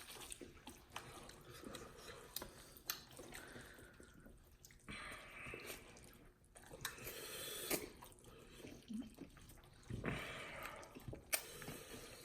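Wet mouth sounds of eating cheesy ramen noodles close to the microphone: slurping and chewing in short spells, with small clicks and smacks between.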